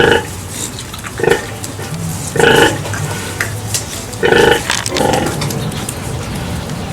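Pig calling in short, loud grunting squeals, about five of them a second or so apart.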